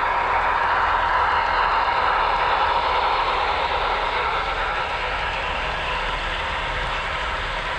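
HO scale model train running along the layout track: a steady rolling rumble of wheels and motor that slowly gets a little quieter.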